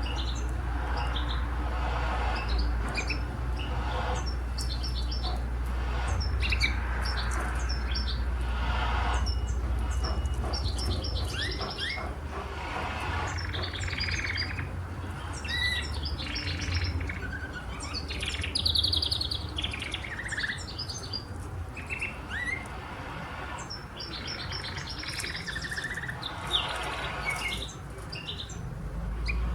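Domestic canary singing: a long run of chirps, rapid rolling trills and quick whistled glides, with a steady low hum underneath.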